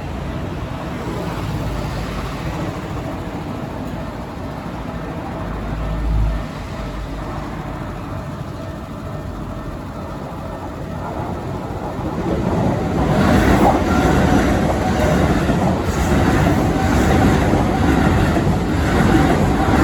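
A train passing over a level crossing. It grows louder about twelve seconds in, and a run of wheel clacks over the rail joints follows.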